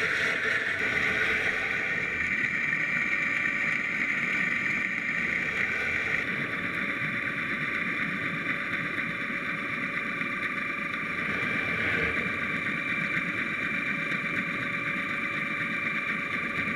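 Steady motor drone with a thin, high, unchanging whine running through it.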